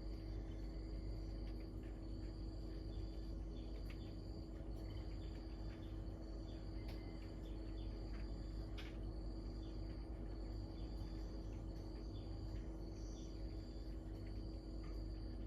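Insect calling outdoors: a high, steady trill repeated about once a second with short gaps, over a steady low hum and faint scattered chirps.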